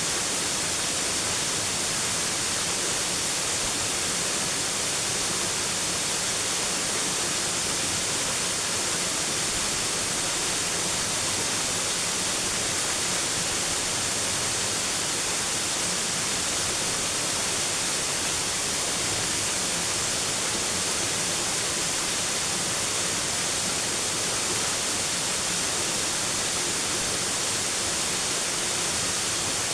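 Steady, even hiss of rushing water, unbroken throughout.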